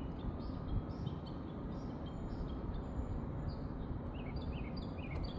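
Wild birds chirping and singing, with short repeated notes several times a second over a steady low rumble.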